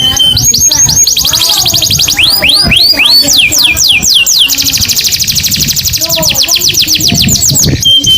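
Canary singing: fast rolling trills of repeated downward-sweeping whistled notes, switching to a new trill pattern every second or two, with the quickest trill running through the second half.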